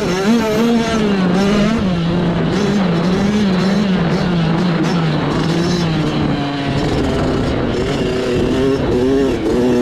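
Mini bike engine running hard under changing throttle, its note rising and falling as the rider works through the trail. It dips lower through the middle and climbs again near the end.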